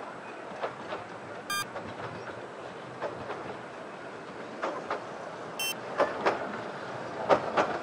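Miniature-railway train running along the track, heard from an open passenger carriage: a steady rolling rumble with irregular sharp clicks of the wheels over rail joints, louder and closer together near the end, and a couple of brief high squeaks.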